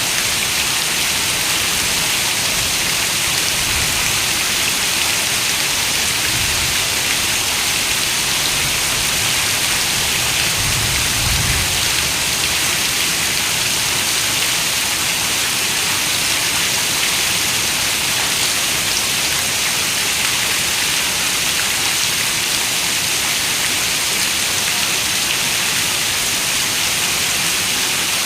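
Heavy rain falling steadily on a window: an even, unbroken hiss, with a soft low rumble about eleven seconds in.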